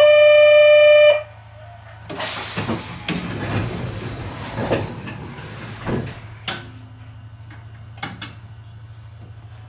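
Sounds aboard a Sangi Railway Hokusei Line narrow-gauge electric train: a loud, steady buzzer-like tone lasting about a second, then a few seconds of clattering and rumbling with knocks, and a couple of sharp clicks near the end, over a steady low hum.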